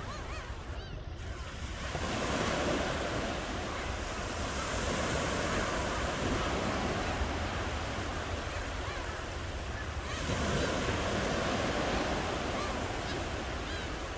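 Ocean waves washing onto the shore, a steady rush of surf that swells as waves break about two seconds in and again about ten seconds in.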